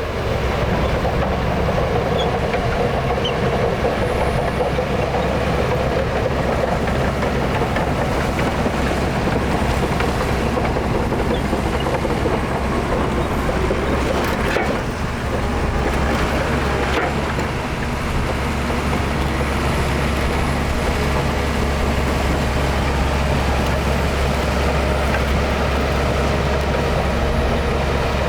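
Heavy diesel earthmoving machinery running steadily, with a deep constant engine rumble.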